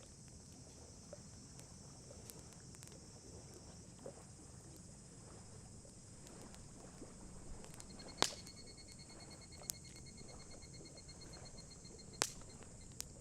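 Wood campfire crackling quietly, with a few sharp pops, the loudest about eight seconds in and others about ten and twelve seconds in.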